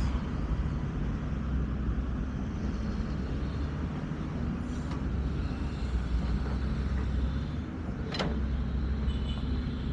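Heavy diesel machinery engine running steadily with a low rumble, with one sharp click or knock about eight seconds in.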